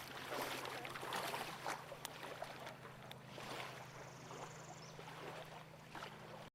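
Water splashing and gurgling around a small plywood dinghy's hull as it moves, with many small splashes over a steady low hum.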